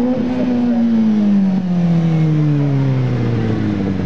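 Motorcycle engine revved, its pitch held for about a second and then falling slowly and evenly as the revs drop away.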